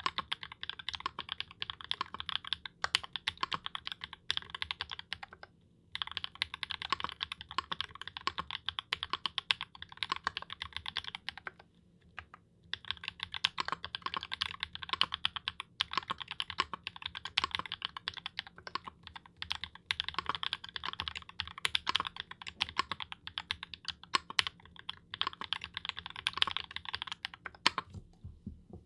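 Fast, continuous typing on a Blackbird mechanical keyboard with XMI Beige switches and GMK Modern Dolch keycaps. It pauses briefly twice and stops just before the end.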